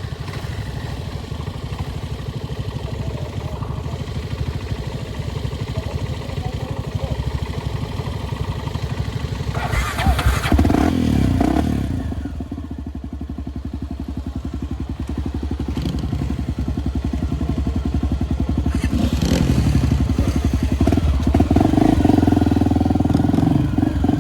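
Enduro motorcycle engine running as the bike rides along, swelling louder about ten seconds in, easing off, then building up again and staying loud toward the end.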